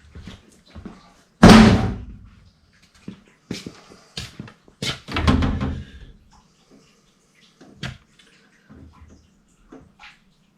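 A few separate knocks and bangs of sheet metal being handled and struck during an evaporator coil install. The loudest is about a second and a half in, with a heavier thud around five seconds and a lighter knock near eight seconds.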